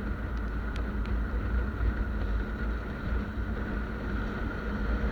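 Motorcycle running at road speed, heard as a steady low rumble mixed with wind noise on the camera's microphone.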